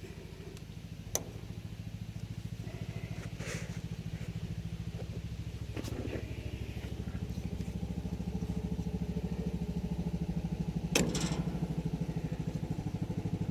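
An engine running steadily at idle, slowly getting louder, with a few sharp metallic clicks from fitting the clip of a roller-chain connector link.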